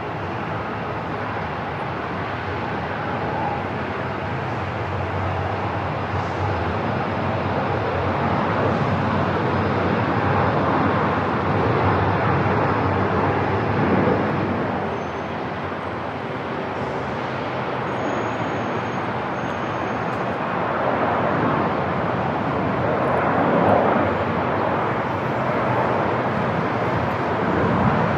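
Airport ambience: a steady rushing of jet aircraft engine noise that swells and eases gently a few times.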